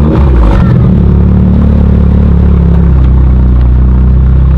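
Car engine idling steadily, its pitch dipping slightly about three seconds in and rising again near the end.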